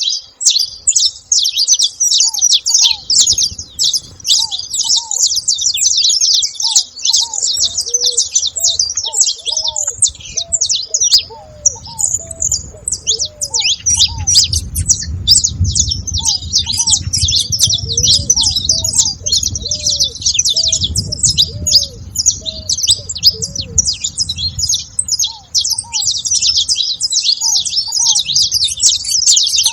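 A flock of saffron finches chirping and chattering, with many high chirps overlapping without a break. A string of short, lower calls repeats underneath, and a low rumble rises and falls through the middle stretch.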